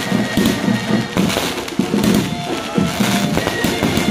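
Aerial fireworks bursting and crackling in quick, irregular pops, mixed with music that carries a melody of short held notes over a pulsing beat.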